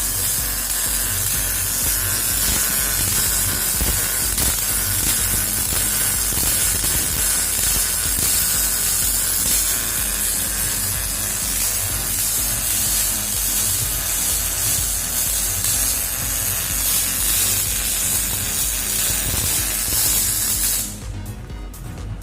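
MIG welder running with CO2 shielding gas: a steady crackling sizzle like frying, which cuts off suddenly about 21 seconds in.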